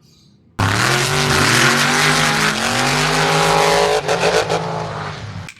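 A toy off-road car's sound module playing a recorded engine-revving effect with tire squeal, rising and falling in pitch; it starts suddenly about half a second in and cuts off abruptly near the end.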